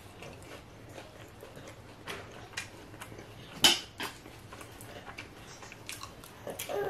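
Close-up mouth sounds of eating a fried pork egg roll (lumpia): chewing with scattered crisp crunches, the sharpest about three and a half seconds in.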